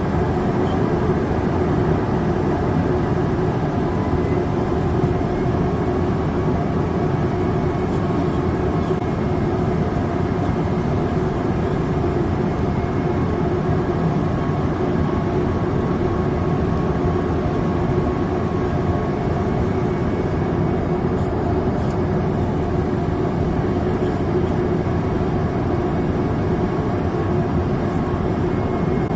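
Steady drone inside a Boeing 787-8 Dreamliner cabin in flight: engine noise and airflow make an even roar, with a steady hum and a few faint high whines.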